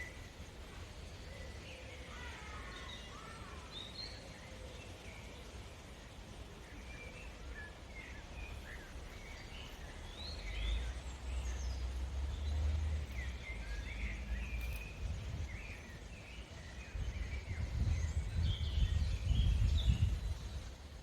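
Several birds chirping and singing in short, overlapping calls and trills, over a low rumble that grows louder about ten seconds in and again near the end.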